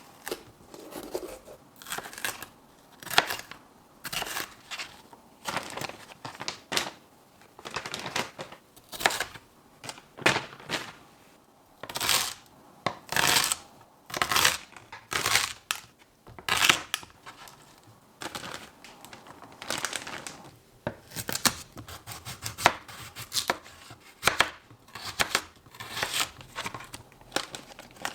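Kitchen food-prep handling noises: a series of short, irregular scrapes, cuts and crinkles, about one to two a second with brief pauses.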